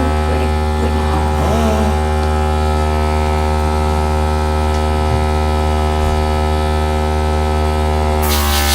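Air compressor for an airbrush-style air gun running with a steady, loud hum. Near the end a hiss of air starts as the gun blows.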